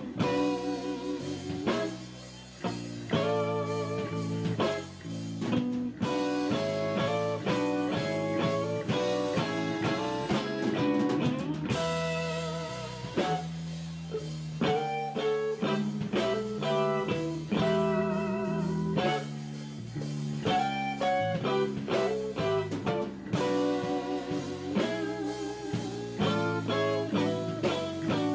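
Live blues-rock instrumental played by an electric-guitar, bass and drums trio: the guitar plays lead lines over bass and drum kit, without vocals.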